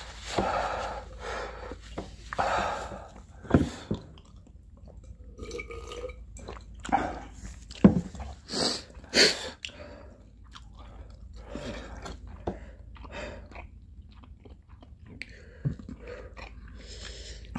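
Chewing and mouth noises as a last mouthful of very spicy instant noodles is worked down with difficulty, with small clicks and two short hissing noises about nine seconds in.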